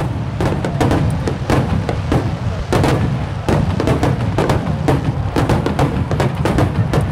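Japanese aerial fireworks barrage (starmine): shells bursting in quick succession, a dense run of booms and crackles, several a second, over a continuous low rumble.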